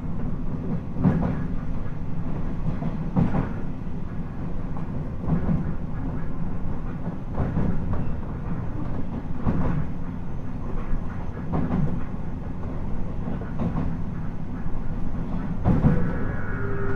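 Running sound inside a JR 719 series electric train: steady wheel and track rumble with a rail-joint clack about every two seconds. Near the end, steady whining tones join in.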